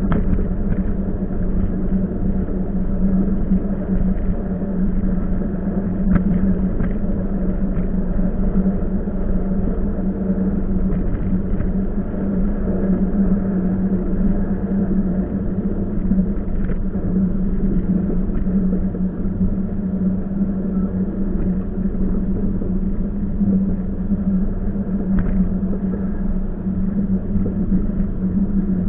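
Passenger train running along the track, heard from on board: a steady rumble with a constant low hum and a few short clicks.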